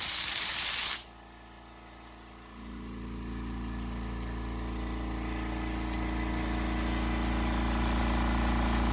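A loud hiss of air for about a second. Then, about two and a half seconds in, the APOLLOTECH 10 L oil-less air compressor's motor starts and runs with a low hum that grows steadily louder.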